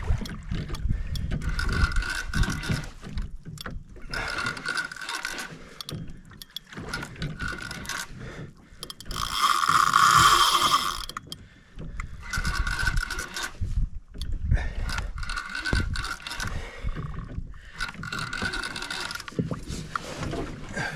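Penn Slammer spinning reel being cranked in repeated whirring bursts of about a second each while a hooked fish is fought, with one louder, longer burst of about two seconds near the middle.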